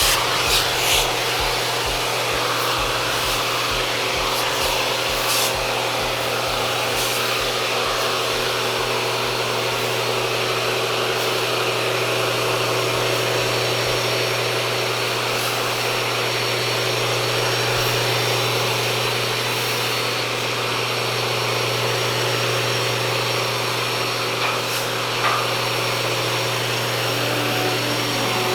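A vacuum motor running steadily: a constant hum under a rushing hiss, with no change in pitch or level.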